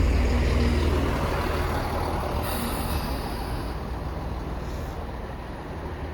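Class 165 diesel multiple unit rumbling as it runs into the station, the rumble dying away steadily, with a short hiss of air about two and a half seconds in.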